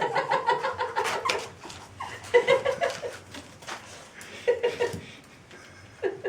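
A person laughing in three bouts of quick, high-pitched pulses, the first and longest at the start, fading towards the end.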